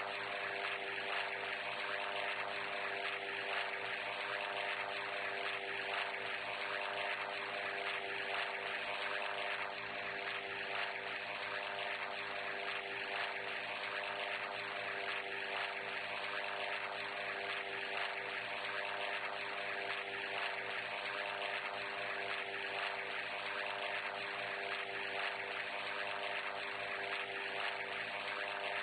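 Steady machine drone: an engine or motor running at one unchanging pitch, with a hiss above it.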